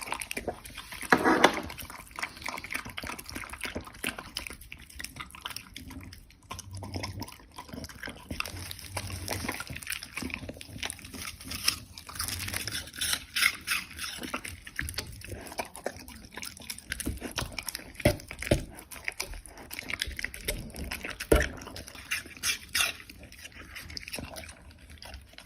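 Border collie eating a bowl of wet food up close: irregular wet chewing, licking and smacking sounds with many small clicks.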